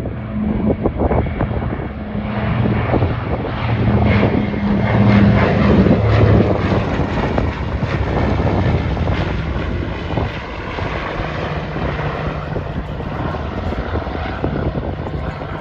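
Twin radial engines of a PBY-5A Catalina flying boat droning as it flies past, rising to a peak about five or six seconds in and then easing off.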